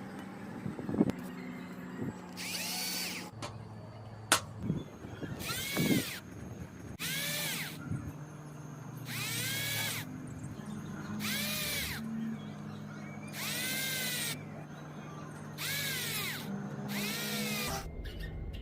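Power drill run in about eight short bursts of roughly a second each, its pitch rising and falling with each squeeze of the trigger. A steady low hum runs underneath.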